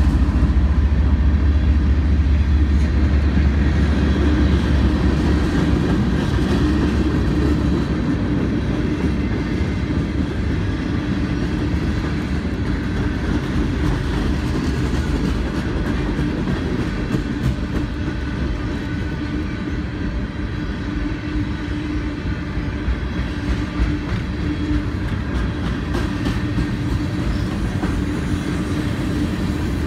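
Freight cars of a passing CSX mixed freight train rolling by, a steady rumble with the clickety-clack of steel wheels on the rails. A deep diesel drone from the just-passed locomotive fades out about four seconds in.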